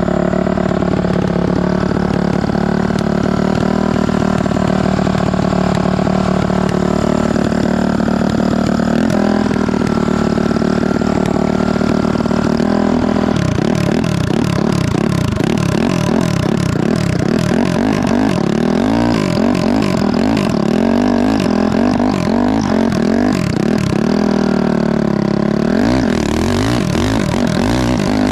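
Honda CRF450 single-cylinder four-stroke engine running on choke after a cold start, holding a steady fast idle at first. About halfway through it is revved up and down again and again.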